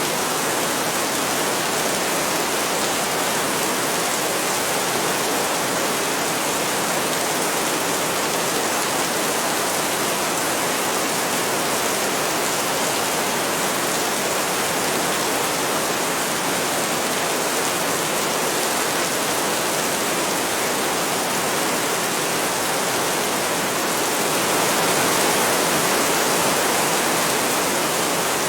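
Heavy rain falling steadily, an even hiss with no thunder, swelling slightly louder for a few seconds near the end.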